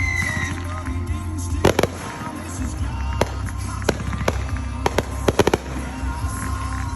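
Fireworks going off: a string of about eight sharp bangs, some in quick pairs, with a falling whistle fading out at the very start.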